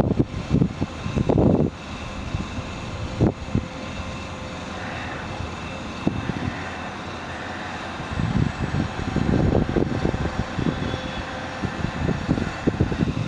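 Generator on an Altec AT200A bucket truck running steadily to power the boom, with a steady hum through it. Wind gusts buffet the microphone at the start and again through the second half.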